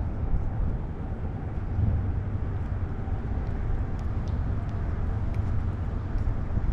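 Steady low rumble of outdoor noise, the kind wind or moving water makes on a handheld microphone, with a few faint clicks.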